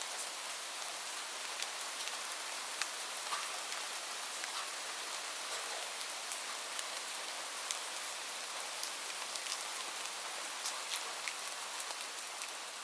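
Steady rain, an even hiss with many small drops ticking sharply on a surface.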